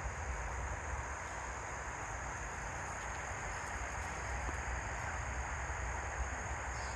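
Steady outdoor ambience: a constant high-pitched insect drone over a low rumble.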